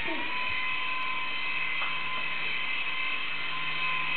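Toy remote-control helicopter's small electric motor and rotor whining at a steady high pitch, rising slightly in the first moment and then holding, with a low hum beneath.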